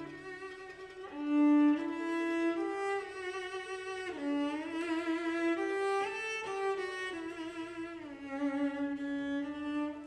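Bowed string instruments playing a slow melody of held notes with vibrato.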